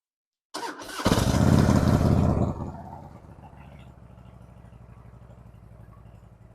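2006 Harley-Davidson Road King's V-twin engine started with the electric starter: a brief crank about half a second in, catching within half a second, running loud and fast for about a second and a half, then settling into a steady idle to warm up.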